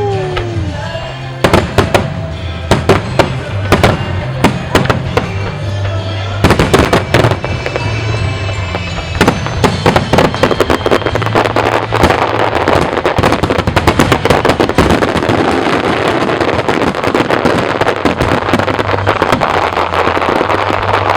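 Wide starmine fireworks barrage: rapid volleys of sharp shell bursts, thickening about halfway through into a dense, continuous crackle, over music from loudspeakers.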